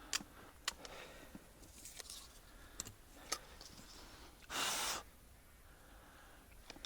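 Faint scattered clicks and rustles of handling, with one short, loud breathy exhale about four and a half seconds in.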